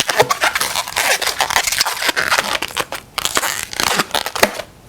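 Latex modelling balloon tails being twisted and tied together by hand: a rapid run of short rubbing and scraping noises of rubber on rubber, stopping near the end.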